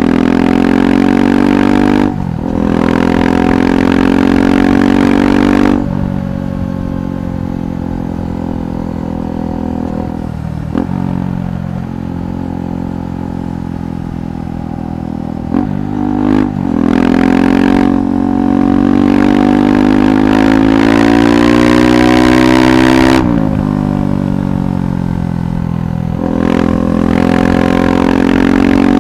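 KTM 390 Adventure's single-cylinder engine through a Red Rooster aftermarket exhaust while riding: it pulls through the gears with several brief breaks in sound at the shifts, runs quieter off the throttle for a stretch in the middle, then rises in pitch under acceleration before backing off again.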